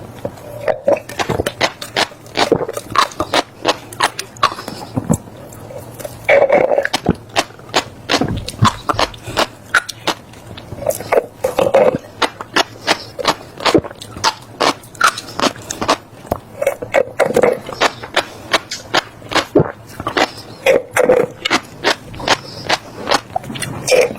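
Close-miked chewing of passion fruit seeds: many quick, crisp cracks as the seeds are crushed between the teeth, coming in bursts every second or two.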